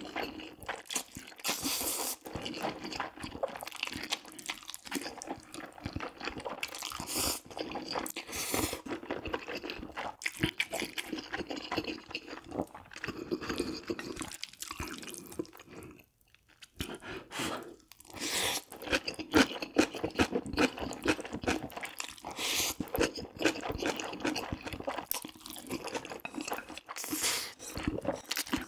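Close-miked, wet chewing of jjajang ramyun (instant noodles in black bean sauce) with beef topping: irregular mouth clicks and smacks, with a brief pause about halfway through.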